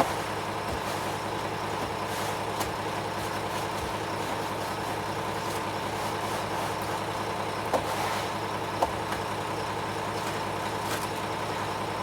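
Front-discharge ready-mix concrete truck running steadily at the pour, a constant engine drone with a few short knocks about eight seconds in.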